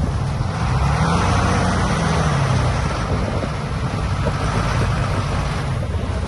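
Diesel engines of heavy earthmoving machinery (bulldozers and dump trucks) running steadily under load. A broad rushing noise rises over the engines about half a second in and eases off near the end.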